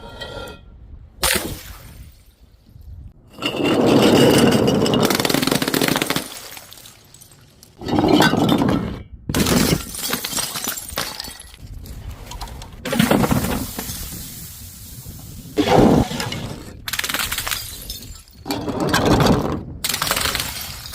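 Glass bottles and jars smashing one after another, about six separate crashes of shattering glass, each with a rattle of falling shards.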